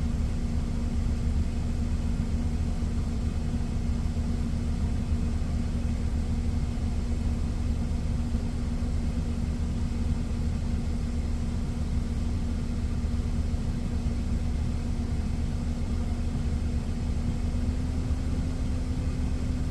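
Diesel engine idling with a steady low rumble and hum. The hum's pitch steps up slightly near the end.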